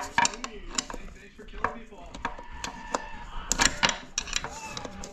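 Irregular clinks and knocks of metal transmission parts and hand tools being handled during the teardown of a 4L60 automatic transmission.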